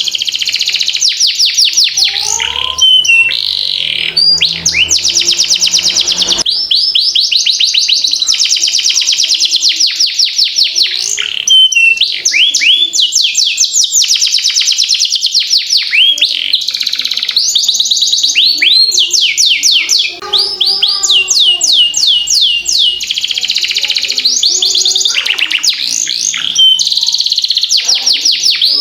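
Domestic canary singing a long rolling song: fast trills of rapid, repeated down-sweeping high notes, switching to a new trill every second or few with only brief gaps.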